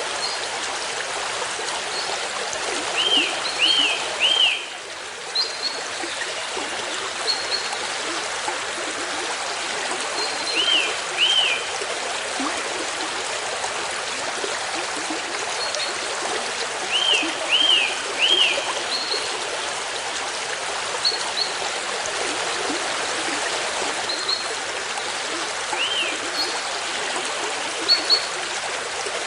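Steady running water of a forest stream, with a bird calling over it: short arched whistled notes in runs of two or three, repeated several times, and brief higher chips in between.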